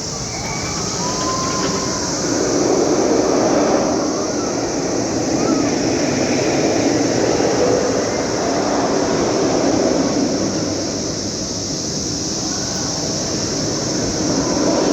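Dense chorus of periodical cicadas, a loud continuous droning buzz that swells and eases every few seconds.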